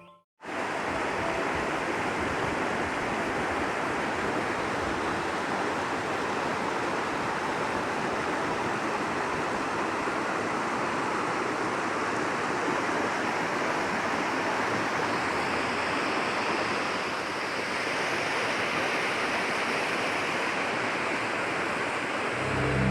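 Steady rushing of running water: an even, pitchless hiss that dips slightly in level about seventeen seconds in.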